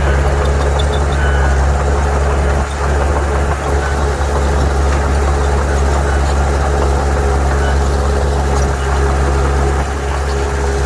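Heavy diesel engine of earthmoving machinery running steadily: a deep, even drone with a thin steady whine above it.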